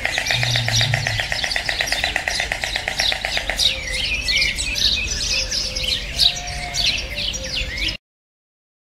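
Several birds chirping with many short rising and falling calls, over a rapid, even rattling trill that stops about three and a half seconds in; the sound cuts off suddenly near the end.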